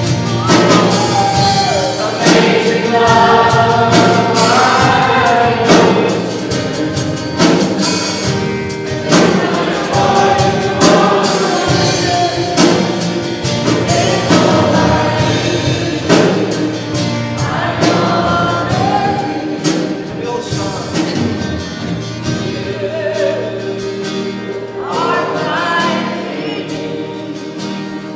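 Congregation and worship band singing a gospel worship song together, with drums and instruments accompanying.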